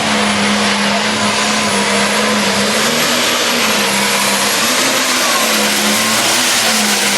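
Turbocharged International 5088 pulling tractor, limited to 540 cubic inches, running flat out under load in a tractor pull: a loud, steady roar with a high whine that creeps slowly upward in pitch.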